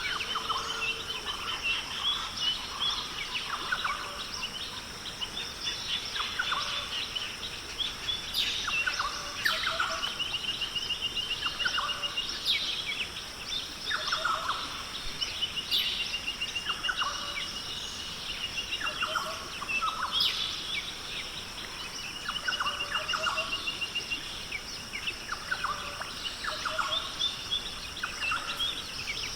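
Rainforest bird chorus: many birds calling on top of one another, with repeated rapid trills and short whistled notes, over a steady high-pitched hum.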